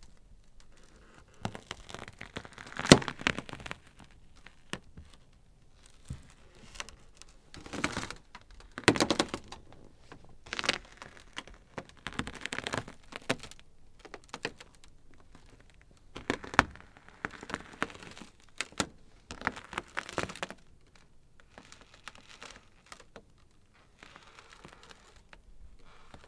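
Ice crackling: irregular clusters of sharp cracks and small crackles, with the loudest cracks about 3 and 9 seconds in.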